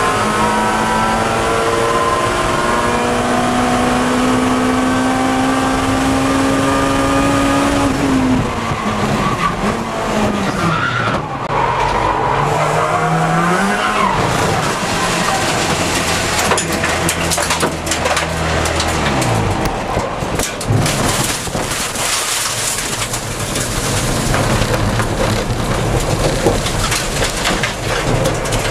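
Acura Integra Type R race car's engine heard from on board, pulling hard with its pitch rising steadily for about eight seconds, then dropping and wavering as the car slows, settling into a low steady drone. In the last third the engine note fades into road and wind noise with scattered rattles and knocks.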